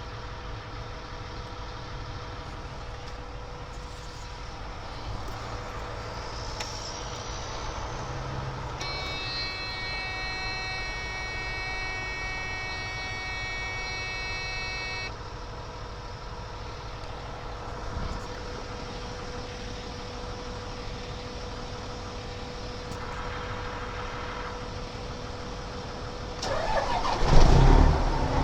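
Semi truck's diesel engine running through 7-inch straight-pipe exhausts, a steady low drone, with a brief loud surge near the end.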